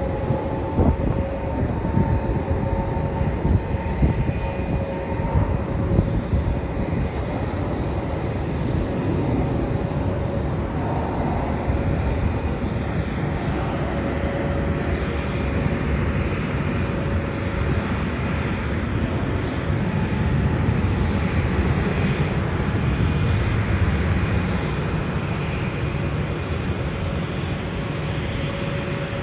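Jet airliner engines running steadily: a low rumble with a held whining tone. Wind buffets the microphone in the first several seconds.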